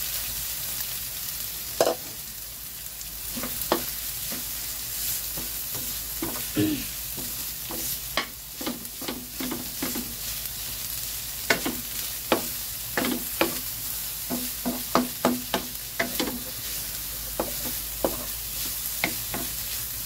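Shredded banana blossom sautéing with onion and garlic in a metal wok: a steady sizzle, with irregular knocks and scrapes of a wooden spatula against the pan as it is stirred, coming much more often in the second half.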